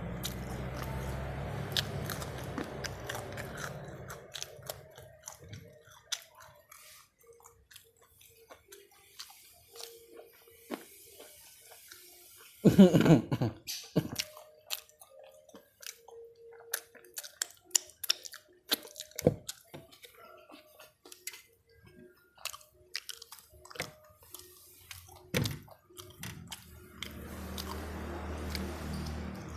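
A person chewing and crunching food close to the microphone, with wet mouth clicks and small crackles scattered throughout. One louder crunching burst comes about halfway through.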